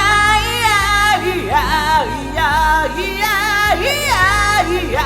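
A singer sings a J-pop song over its karaoke backing track, holding and bending high notes with vibrato.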